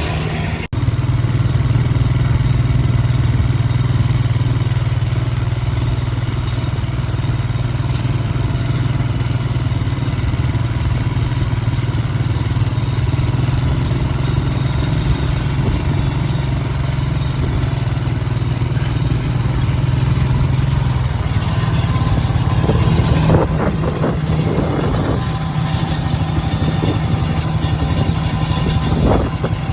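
Tractor engine running steadily at a constant speed. Irregular knocking and rattling joins it for a few seconds about three-quarters of the way through, and again near the end.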